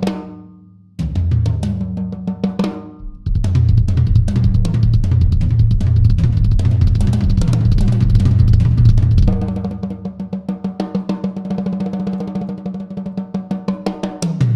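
Yamaha Absolute Hybrid Maple drum kit played solo. Two short fills ring out, then from about three seconds in comes a run of fast, dense strokes on snare, toms and bass drum, easing to a lighter pattern about nine seconds in.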